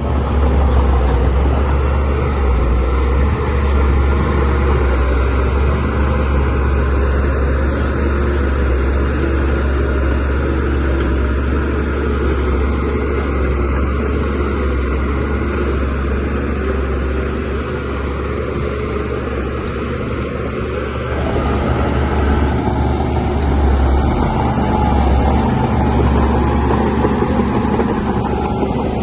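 Shantui DH17C3Pro bulldozer's diesel engine running steadily, a loud low drone that eases off slightly about two-thirds of the way through and then picks up again.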